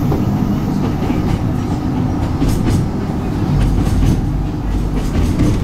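Hakone Tozan Railway electric train running on its mountain line, heard from inside the car: a steady, loud rumble of wheels on rail with scattered short clicks.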